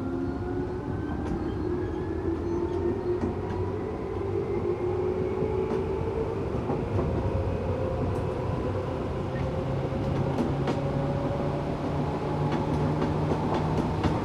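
Tokyu 8500 series electric train running, heard from aboard: the whine of its Toyo-built traction motors rises slowly in pitch as the train gathers speed, over a low rumble. Occasional sharp clicks of the wheels passing rail joints come through in the second half.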